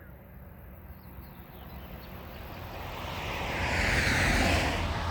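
A vehicle passing by, its noise building over a few seconds to a peak about four seconds in and then fading, over a steady low hum.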